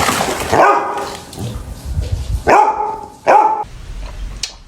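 A dog barking: three short barks, one about half a second in and two close together past the middle.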